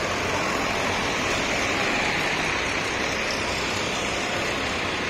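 Several tractor engines running together, heard as a steady, even wash of noise with a low rumble underneath.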